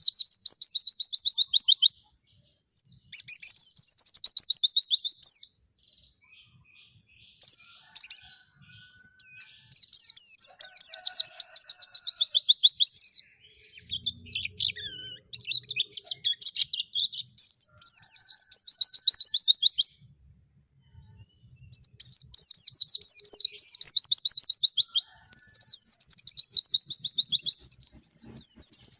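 A white-eye (pleci) singing hard: long, high-pitched phrases of rapid chattering trills lasting several seconds each, with short pauses between them.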